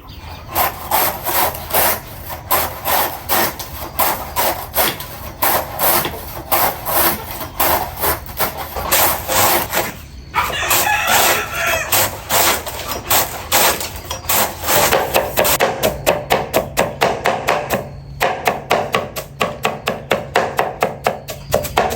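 Rhythmic scraping or rubbing strokes, about two to three a second, that quicken in the last few seconds, with a brief pause about halfway through.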